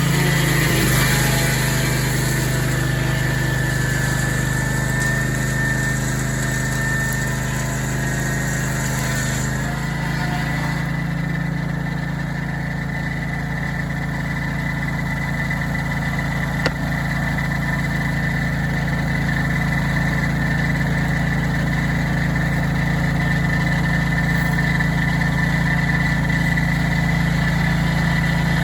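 Bandsaw sawmill's engine running steadily, with a steady high whine above it. A hiss fades out about ten seconds in, and there is a single sharp click later on.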